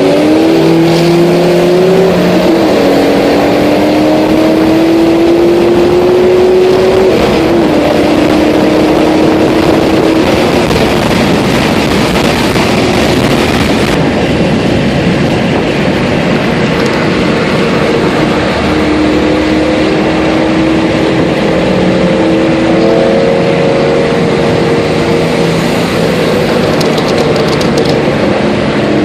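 Car engine accelerating hard on the freeway. Its pitch climbs through the gears, with upshifts about 2 and 7 seconds in. A loud rushing noise of speed follows, and later a steadier engine drone.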